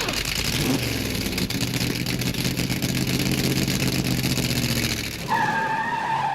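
A motor vehicle engine running loud with a steady low drone and hiss, rising slightly in pitch. It is cut off about five seconds in by a brief steady tone.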